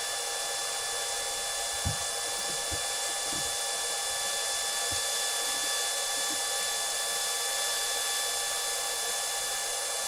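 Welding arc hissing steadily, with a few faint low knocks in the first half.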